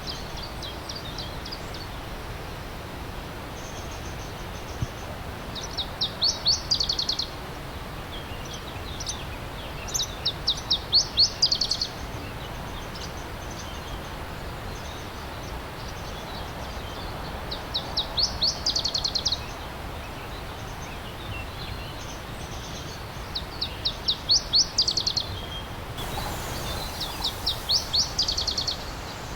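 A songbird repeating a short song of rapid, high, quick-fire notes that swell in loudness, five times, every several seconds. Underneath, the steady rush of a stream.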